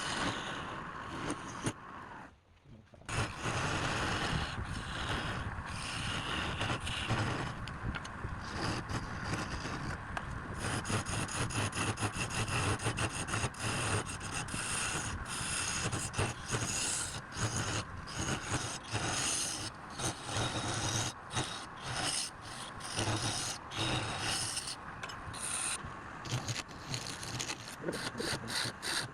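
Wood lathe running while a turning tool scrapes and cuts against the spinning wood. The sound breaks off for about a second near the start.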